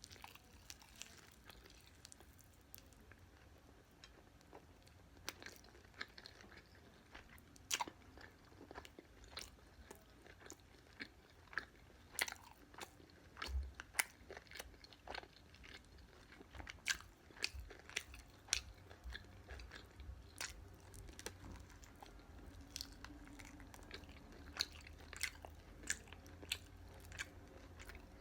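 Close-up chewing and biting of fried chicken, with irregular crisp crunches from the fried coating.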